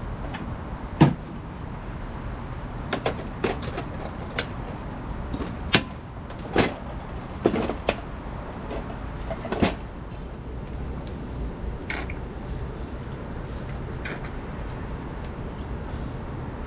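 A series of sharp knocks and clacks, about ten scattered irregularly and the loudest about a second in, over a steady low hum.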